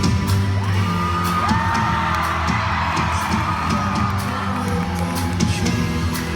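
Live pop concert through a small recorder: the band comes in with a loud hit and a heavy, steady bass beat, while audience members whoop and scream over the music.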